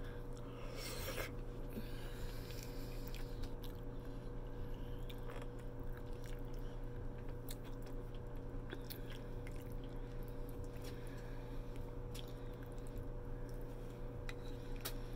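Close-up mouth sounds of a person biting and chewing soft stuffed cabbage, with scattered small clicks as chopsticks tap the glass bowl. A short louder rasp comes about a second in, over a steady low hum.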